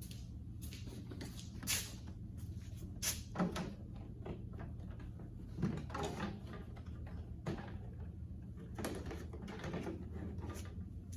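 Scattered knocks, clicks and scrapes of tools and metal parts being handled during hands-on repair work, over a steady low hum.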